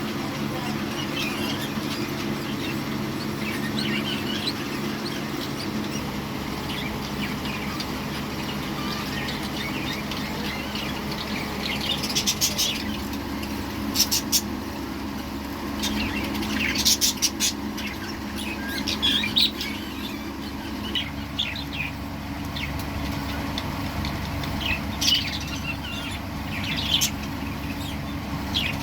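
Budgerigars chirping and chattering, with sharper, louder calls scattered through the second half.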